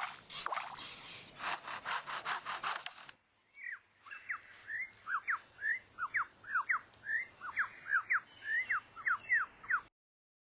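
Superb lyrebird mimicking a chainsaw: a rasping, pulsing buzz for about three seconds. After a brief pause it sings a fast run of clear whistled notes, mostly quick falling slides, two or three a second, until it stops near the end.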